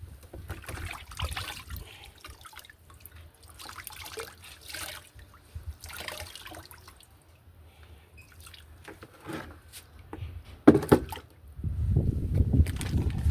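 Water dripping and splashing amid irregular handling noises, with a sharp knock about eleven seconds in and a louder low rumbling near the end.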